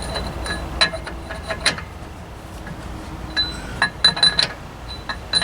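Light metallic clinks and clicks, several with a short ring, as hand tools work the wheel-bearing adjusting nut on a truck's rear axle hub, backing it off a notch to set the bearing clearance. There is a scattered group about a second in and a quicker cluster in the middle.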